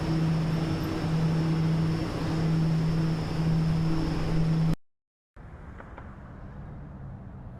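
Subway train running, a steady low hum over loud rushing noise with a faint high whine. It cuts off suddenly about five seconds in, and a quieter steady rumble follows.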